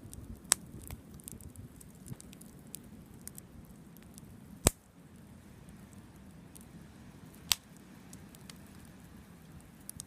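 Campfire burning, the wood crackling with scattered small snaps. Three sharp, loud pops stand out, about half a second, four and a half and seven and a half seconds in, over a low, steady rumble.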